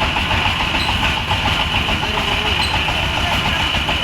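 A motor vehicle's engine running steadily with a low rattling rumble and a constant high whine, heard from on board while it drives.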